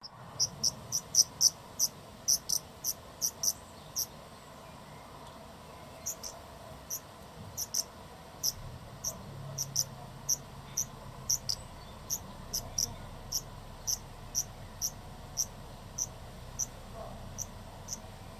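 A cricket chirping: short, high chirps repeated evenly, about four a second at first, then about two a second after a brief pause.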